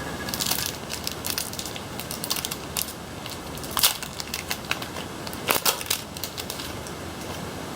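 Pokémon trading cards and a foil booster-pack wrapper being handled, giving irregular crinkling and crackling with a few sharper crackles partway through.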